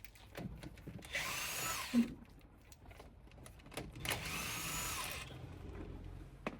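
Handheld power tool spinning wheel nuts off a car wheel, in two runs of about a second each, its motor pitch rising then falling each time. A short knock about two seconds in.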